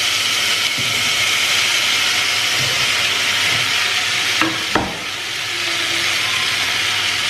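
Mushrooms, tomatoes and greens sizzling in hot oil in a pressure cooker pan: a steady frying hiss. Two sharp knocks come about four and a half seconds in.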